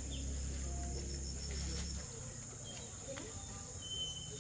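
Insects, such as crickets or cicadas, keep up a steady high-pitched drone, with a quick run of chirps in the first half. Under it a low rumble stops about two seconds in.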